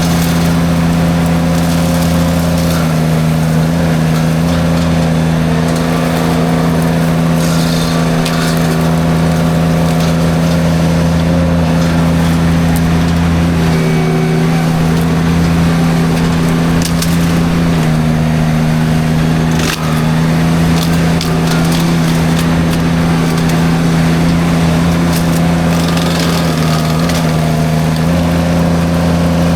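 Derette V1000 mini skid steer running hard with its drum forestry mulcher cutting brush: a loud, steady engine tone that sags briefly under load a few times, with sharp cracks and crunches of wood being chewed up.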